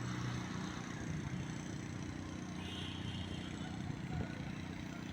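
Street traffic: a steady hum of vehicle engines with a noisy wash of traffic above it.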